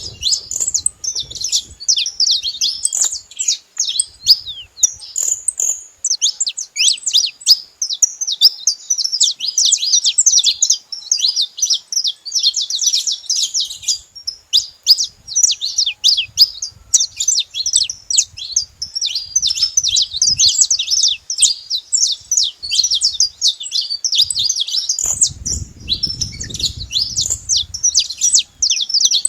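Several saffron finches chirping and trilling at once in a dense, continuous chatter of rapid high notes.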